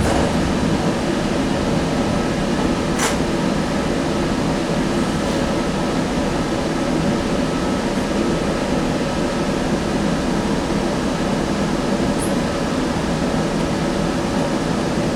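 Steady interior noise of a Sound Transit Link light rail car: the even hum of its ventilation and running gear, with a single sharp click about three seconds in and a brief high chirp near the end.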